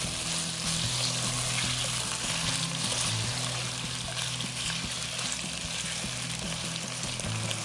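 Chicken pieces sizzling as they fry in hot oil in a wok over a high flame, stirred with a spatula. A steady, bright sizzle runs throughout, with low background music underneath.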